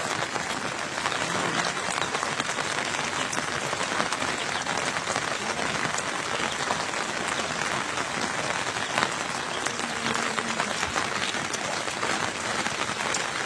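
Steady rain, a dense even hiss of countless fine drop hits with no let-up.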